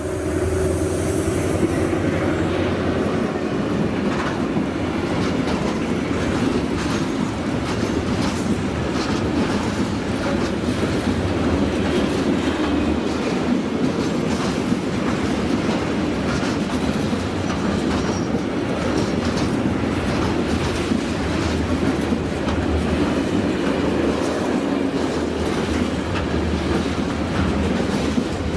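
A train's wagons rolling past, close and loud, with a continuous clickety-clack of wheels over rail joints.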